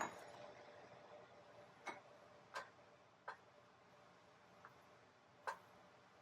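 Faint, irregular clicks and taps, about six of them spread unevenly, over a faint hiss that slowly fades.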